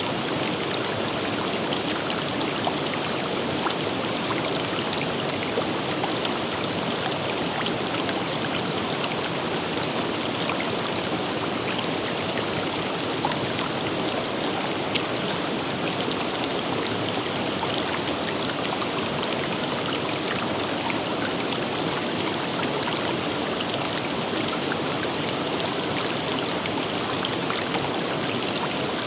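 River water running over rocks, a steady rushing flow with small splashes and trickles throughout.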